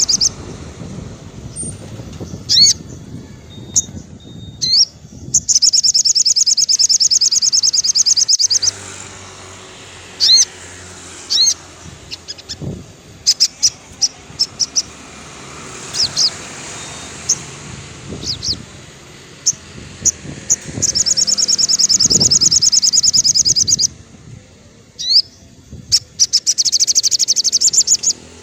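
Olive-backed sunbird singing: three long, high, rapid trills of a few seconds each, with short sharp chirps between them.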